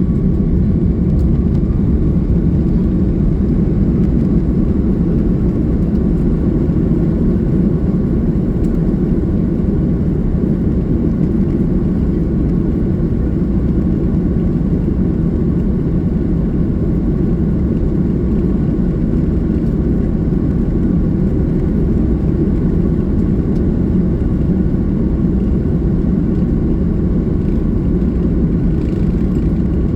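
Steady cabin noise aboard an Airbus A330-300: a low, even rumble of engines and airflow with a faint whine over it.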